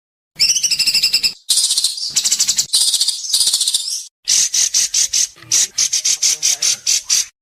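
Songbird giving harsh, rasping 'besetan' calls used as masteran for training white-rumped shamas: bursts of about half a second to a second with short silent gaps, then from about halfway faster trains of short pulses, roughly eight a second.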